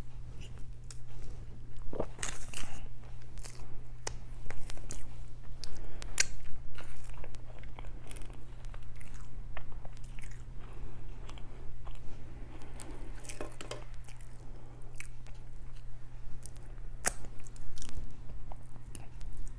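Close-miked eating: chewing and biting with occasional crunches and wet mouth clicks, over a steady low hum.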